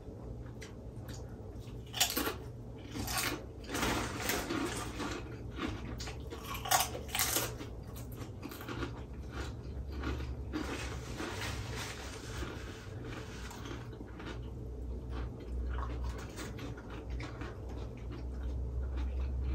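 Mouth sounds of eating: irregular chewing and crunching, with a few sharper clicks of utensils or food against a plate, the loudest about two seconds in and again about seven seconds in.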